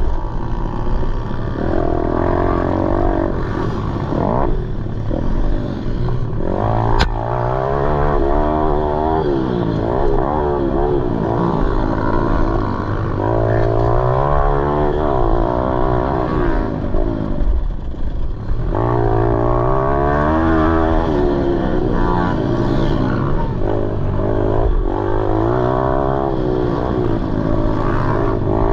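Pit bike engine racing, its pitch repeatedly rising under acceleration and dropping off between gear shifts and corners. A single sharp click sounds about seven seconds in.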